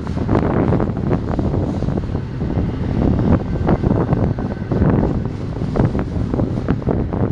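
BNSF container stack train rolling past: a steady rumble of steel wheels on rail with frequent sharp clanks. Wind buffets the microphone.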